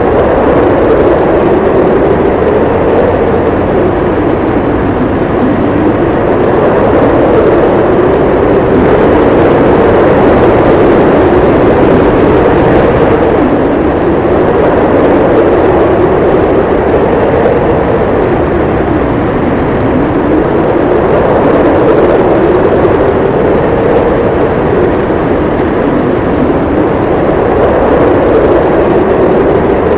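Howling snowstorm wind: a steady, loud rush whose pitch slowly rises and falls every few seconds.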